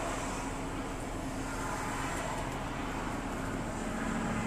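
Steady vehicle noise: a car's engine running with a low, even hum under a constant rumble of road and motor noise.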